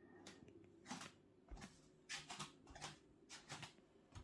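Near silence with a scattering of faint, short clicks and taps, about eight in all.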